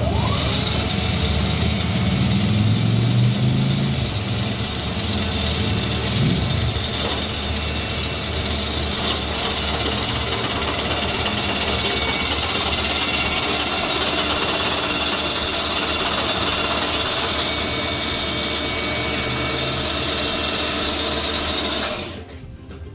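Metal-cutting machine running steadily as it cuts a hemi into a Volkswagen cylinder head's combustion chamber to lower compression, a loud even machining noise with a high hiss. It stops suddenly about a second before the end.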